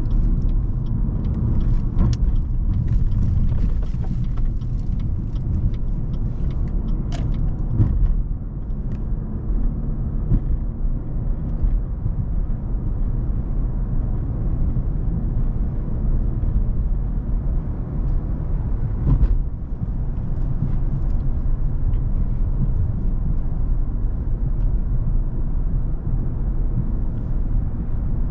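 Cadillac CTS 3.6-litre twin-turbo V6 driving along at a steady pace: a continuous low engine and road rumble with no revving, broken by a few brief clicks.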